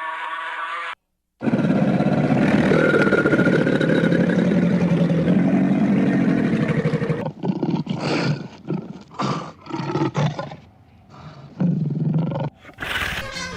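A big cat roaring: one long, loud roar, then a string of shorter grunting roars.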